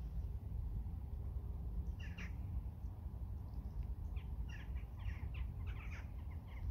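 Birds calling in a run of short, scratchy calls from about two seconds in, over a steady low rumble.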